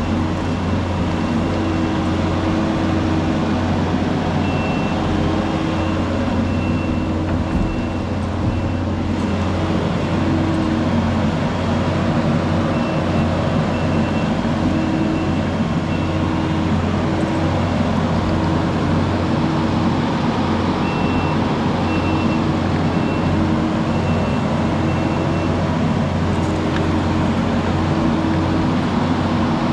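Diesel engine of heavy earthmoving equipment running steadily under work. In stretches a high back-up alarm beeps at an even pace.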